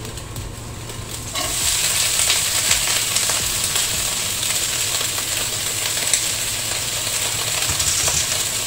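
Wet green vegetables hitting a hot frying pan: a sudden loud sizzle starts about a second and a half in and carries on steadily as they fry.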